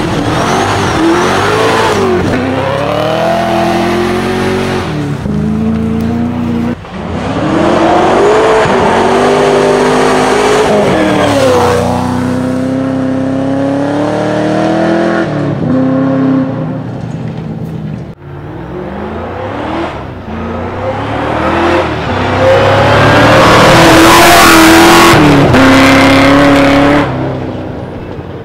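Holden VE Commodore rally car's V8 engine revving hard under full throttle. It climbs in pitch through each gear and drops at every upshift, over several runs, and is loudest near the end.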